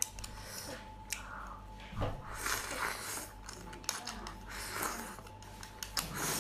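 A person chewing chewy clam meat, with a few sharp clicks.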